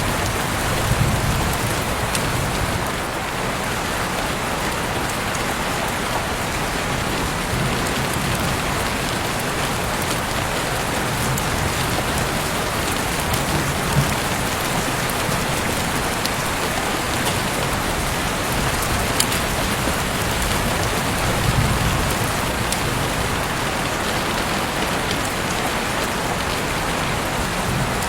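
Heavy rain falling steadily, with a dense hiss of drops and occasional louder drips and splashes.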